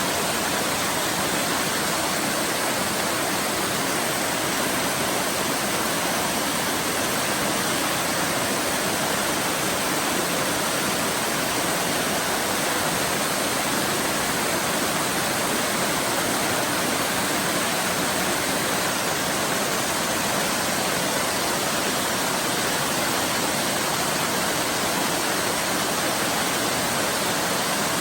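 Waterfall pouring, a steady, unbroken rush of water that doesn't change.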